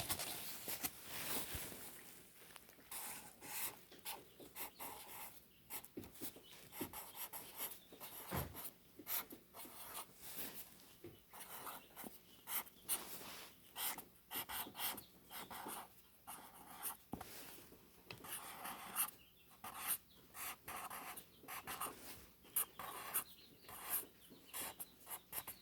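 A pen or marker writing on paper: a run of short, irregular scratching strokes with small gaps between them.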